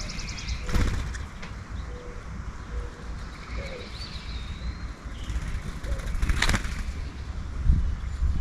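Birds at a feeder: two brief wing flutters, about a second in and again about six and a half seconds in, with soft low cooing of a mourning dove between them and faint high chirps.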